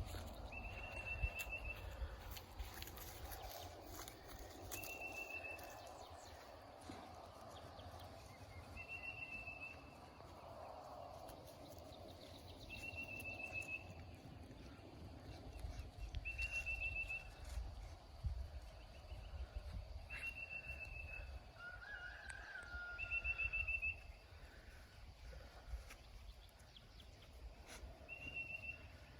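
An unseen critter's short, high, rattling trill, repeated eight times about every four seconds, with one lower call about 22 seconds in. A steady low rumble runs underneath.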